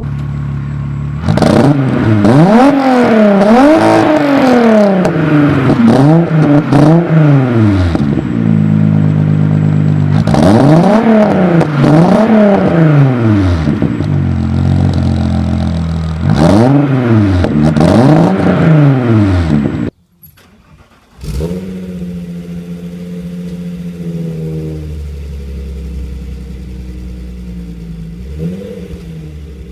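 Volkswagen VR6 engine revved again and again from idle in quick blips, its pitch climbing and falling with each rev. After a sudden brief drop-out, a VR6 idles steadily, with a couple of small blips near the end.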